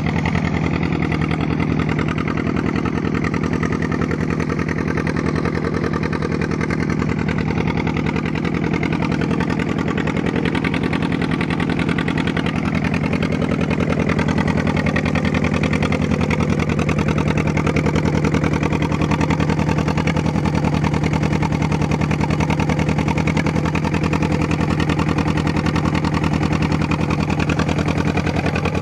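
A 48 hp engine running steadily at an even speed, a little louder for a few seconds past the middle.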